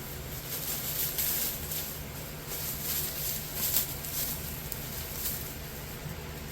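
Packaging being handled and rustled while furnace kit parts are unpacked: a run of irregular crinkly rustles and scrapes, busiest in the first few seconds.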